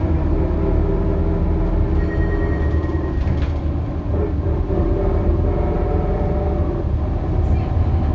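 Scania K280UB city bus with a ZF Ecomat automatic gearbox running while driving: a steady low rumble with a held, slightly wavering hum. A couple of short knocks come through, one about three and a half seconds in and one near the end.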